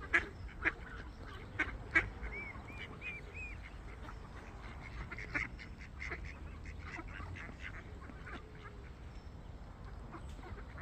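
Swan giving repeated short honking calls, agitated at a person approaching her cygnets, with a brief run of higher arched notes about two to three and a half seconds in.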